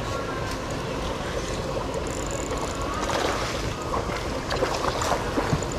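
Steady outdoor rumble and hiss, like wind buffeting the microphone, with a scatter of short clicks and knocks from about three seconds in.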